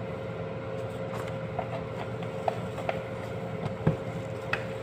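Light clicks and taps of kitchen utensils and containers, about half a dozen spread irregularly, the loudest near the end, over a steady background hum.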